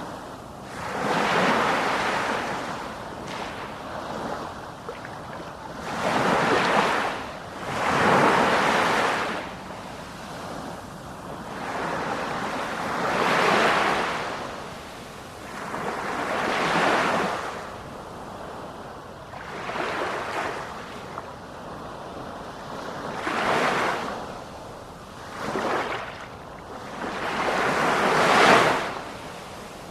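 Sea waves breaking one after another, each a rushing surge that swells and fades, every two to four seconds.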